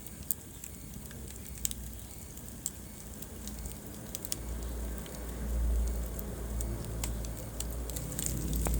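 Wood fire crackling in a fireplace: scattered sharp pops over a low rumble that swells about five seconds in.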